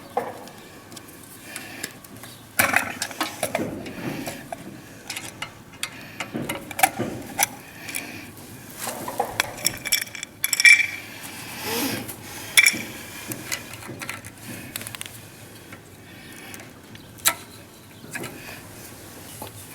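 Scattered small metal clicks and clinks of hand tools and fittings as the wiring of an electric motor's terminal box is worked on, with a few sharper knocks.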